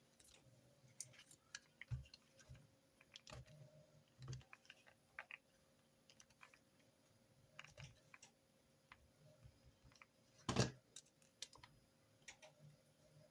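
Irregular light clicks and taps of desk note-taking, with one louder knock about ten and a half seconds in.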